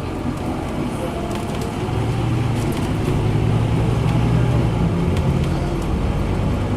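Scania N230UD double-decker bus's five-cylinder diesel engine running under load, its drone growing louder about two seconds in and then holding steady, with light scattered rattles.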